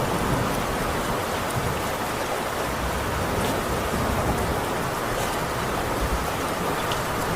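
Heavy rain falling steadily on a tin roof, a dense even hiss with a few sharper drop ticks now and then and a low rumble beneath.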